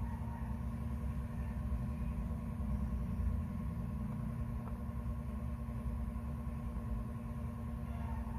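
Steady low rumble with a faint, even hum above it, unchanging throughout.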